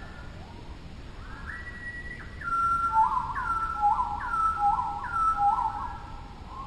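Birds calling in clear whistled notes. Two series answer each other, a higher falling note and a lower peaked note, each repeated about four times, roughly one note every second, loudest in the middle of the stretch.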